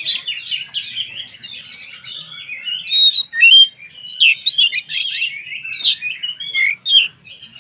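Oriental magpie-robin (kacer) in full song: a fast, unbroken run of varied whistled notes and quick slurred phrases, louder from about three seconds in.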